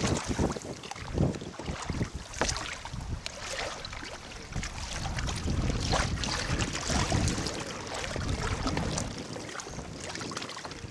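Wind buffeting the microphone aboard a small boat, with water lapping and irregular knocks and clatters.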